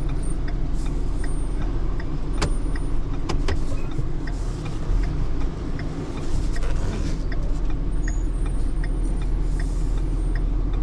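Truck engine idling with a steady rumble, heard with an indicator flasher ticking about twice a second; a single sharp click about two seconds in.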